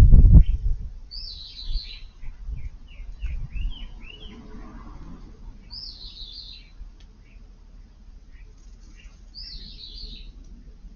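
Eurasian tree sparrows chirping: short chirps scattered throughout, with a brighter call phrase about every four seconds. A loud low rumble in the first half second.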